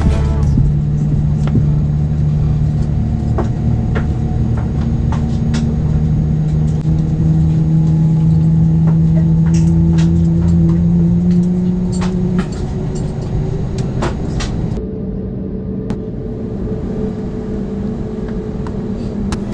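Airbus A321XLR cabin noise: the jet engines run with a heavy rumble and a tone that slowly rises, then ease off somewhat about twelve seconds in, with scattered light clicks and knocks.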